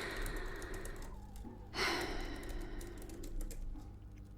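A woman sighing twice, two long breathy exhales, with faint light tapping clicks underneath.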